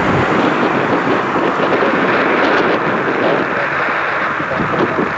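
Strong gusty wind blowing across the microphone: a steady, loud rushing noise.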